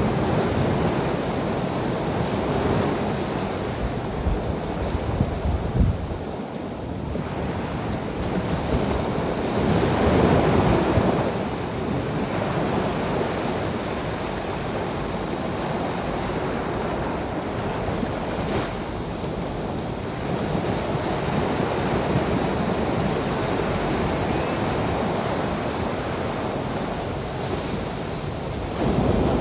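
Ocean surf: waves breaking and washing ashore in a continuous rush that swells and ebbs, with the loudest surge about ten seconds in.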